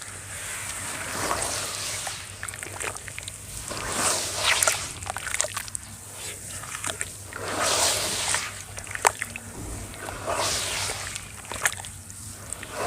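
Packed sand shapes crumbling apart in water: wet, crackling, sloshing noise that swells up every two to three seconds, with sharp little cracks inside each swell.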